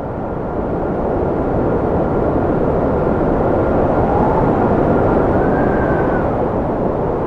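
Strong cold wind blowing, swelling over the first second or two and then holding steady, with a thin whistle that rises and falls in pitch over it.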